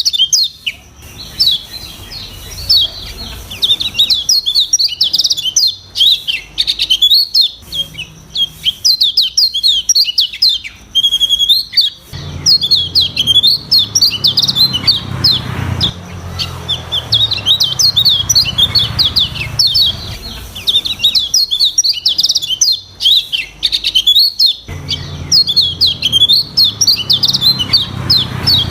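Kecial kuning, a white-eye, singing a fast, unbroken chatter of rapid high chirps and trills in varied phrases.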